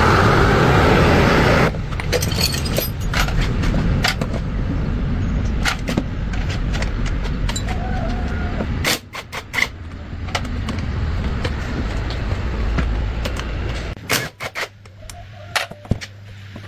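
A small motor running with a steady low hum, with many short metallic clicks and clinks over it, after a loud rushing noise in the first second or two; the hum drops out briefly about nine seconds in and fades near the end.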